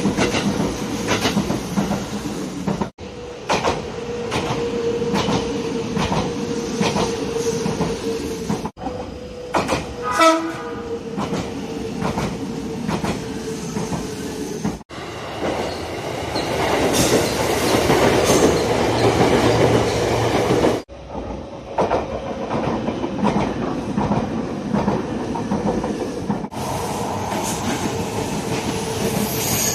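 Nagano Electric Railway express trains running on track, wheels clacking over rail joints with a steady motor hum, in several short clips cut one after another. A short horn sounds about ten seconds in.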